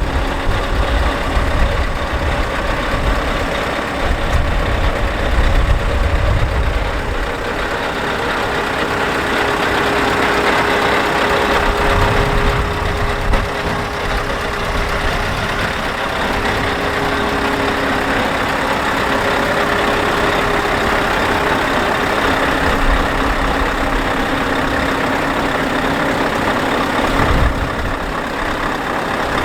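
Scania R520's 16-litre V8 diesel engine running steadily, with a heavier low rumble in the first several seconds and again near the end.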